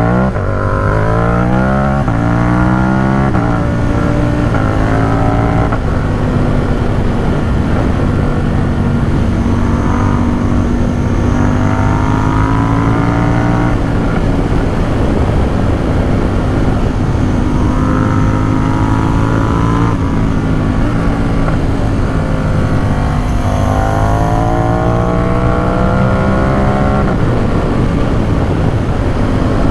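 Ducati Supersport 950 S's 937 cc L-twin engine and exhaust under way: it pulls up in pitch through the revs about four times, with stretches of steady cruising between.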